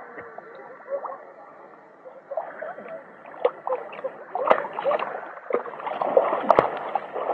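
Sea water splashing and gurgling at a swimming spot, with distant voices and two sharp knocks a few seconds in.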